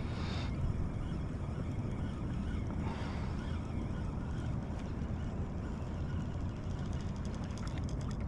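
Wind rumbling on the microphone out on open water. A run of fast faint ticks comes near the end.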